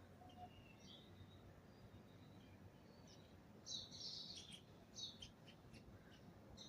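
Small birds chirping faintly, with a louder flurry of rapid chirps a little under four seconds in and another about five seconds in.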